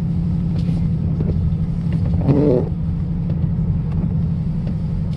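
2018 Mustang GT's 5.0-litre V8 running steadily as the car climbs a snow-covered hill on snow tyres, heard from inside the cabin.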